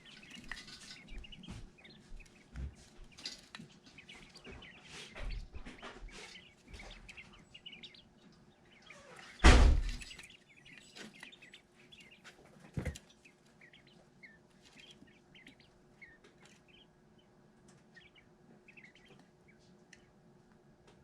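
Young chicks cheeping, many short high peeps scattered throughout and growing sparser toward the end. A loud knock comes about nine and a half seconds in, and a smaller one about three seconds later.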